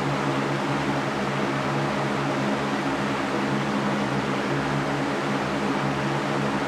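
Electric fan running steadily: an even whooshing rush of moving air over a low motor hum.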